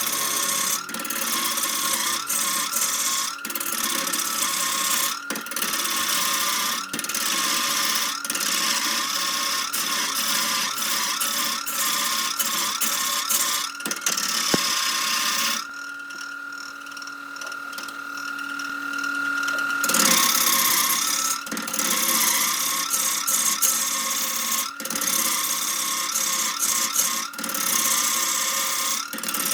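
Wood lathe running, with a turning tool cutting into spinning wood: a continuous scraping, rasping cut over the motor's wavering whine. The cut stops for about four seconds past the middle, leaving only the lathe's steady whine, then bites in again.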